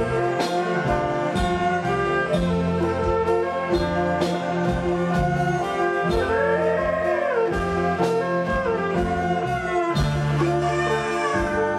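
Likay band music with a steady drum beat under held melody notes, one of which bends up and back down about six seconds in.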